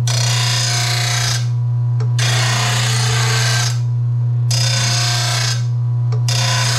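RBG 712 mower blade sharpener running with a steady motor hum while a steel mower blade is drawn across its grinding wheel four times, each pass a harsh grinding hiss lasting a second or so. The blade is being ground to a 30-degree edge.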